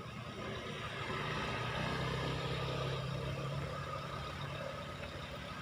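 A truck's engine running as it passes. The hum grows louder to a peak about two to three seconds in, then eases off slightly.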